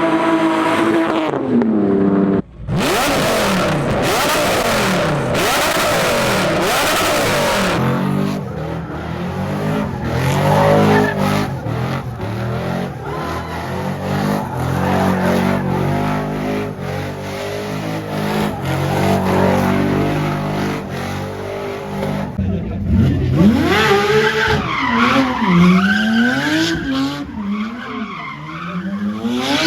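Car engines revving hard with tire squeal: one engine held at high revs drops off about two seconds in, then, after a sudden cut, engines rev up and down again and again.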